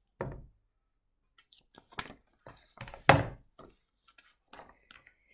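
A picture book being handled, giving a few short thumps and clicks, the loudest thump about three seconds in.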